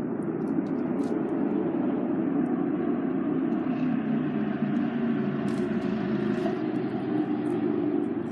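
Campfire crackling with scattered sharp pops, over a loud low rumble that swells at the start and eases off near the end.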